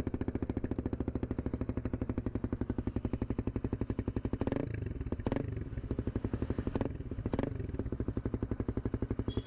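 Suzuki GSX-R motorcycle engine idling through an aftermarket Leo Vince GP Corsa exhaust with its dB killer fitted, giving a steady, evenly pulsing note. It rises briefly in pitch about four and a half seconds in, and a few sharp clicks follow.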